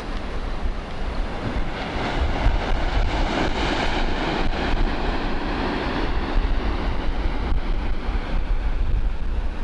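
Wind rushing over a camera microphone on a moving bicycle: a steady noisy rush with a heavy low rumble that swells a little a few seconds in.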